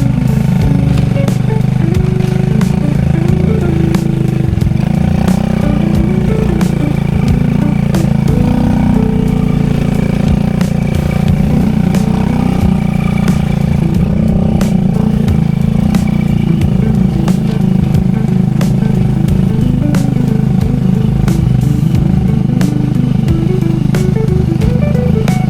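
Small motorcycle used as a habal-habal taxi, its engine running steadily under way.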